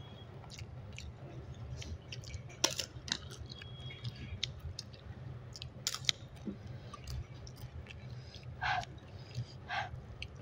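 Close-up eating sounds: chewing with sharp crunches and mouth clicks as crisp papad is bitten and eaten with rice by hand. The loudest crunches come about two and a half seconds in and again around six seconds, over a steady low hum.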